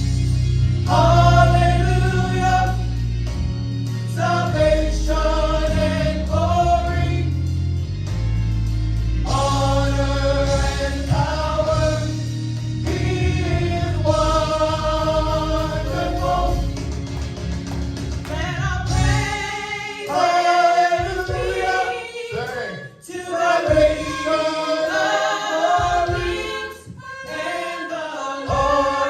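Gospel choir singing with a band and heavy bass. About two-thirds of the way through, the bass drops out and the voices carry on with little backing.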